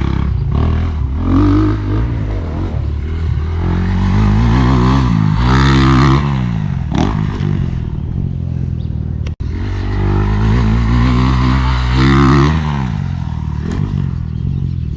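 Motocross dirt bike engine revving up and backing off on a ride toward a jump, its pitch climbing and falling, loudest about six seconds in and again about twelve seconds in.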